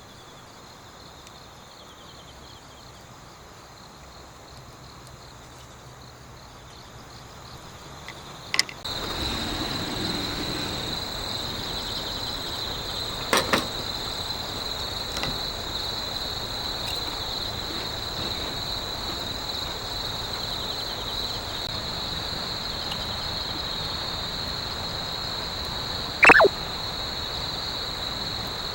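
Autumn night insects chirping in a steady high trill that grows louder about a third of the way in, with a few sharp pops and snaps from the campfire's burning wood.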